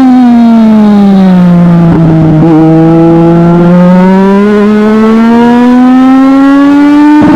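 Legend race car's Yamaha four-cylinder motorcycle engine running hard. Its revs fall away over the first couple of seconds, hold low briefly, then climb steadily back up as it accelerates again, with brief rough patches near the start and the end.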